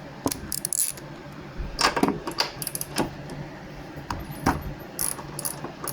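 Irregular metallic clinks and clicks of a spark plug socket and wrench being fitted and turned to take out a lawnmower's spark plug.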